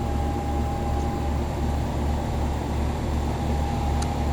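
Outdoor heat pump condensing unit running in cooling mode: a steady low hum from the compressor and condenser fan, with a steady thin whine over it and a faint tick near the end.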